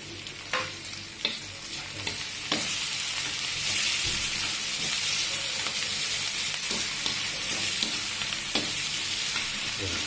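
Chopped onion and garlic sizzling in oil in a wok while a metal slotted spoon stirs them, with sharp clinks of the spoon against the pan. The sizzle grows louder about two and a half seconds in.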